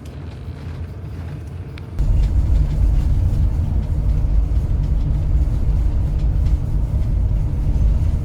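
Low, steady rumble of a motorhome's engine and tyres on the road while driving, jumping abruptly louder about two seconds in.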